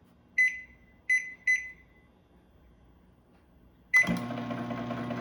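GE countertop microwave's keypad beeping three times as a selection is entered, then near the end a fourth beep and the oven starts running with a steady hum: it now starts normally with its failed door switches replaced.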